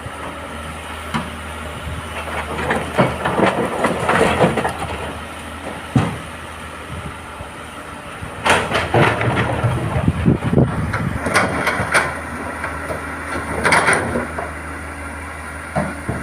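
Heavy excavator's diesel engine running steadily, with irregular bursts of clattering and scraping rock, heaviest about a third of the way in and again from just past halfway.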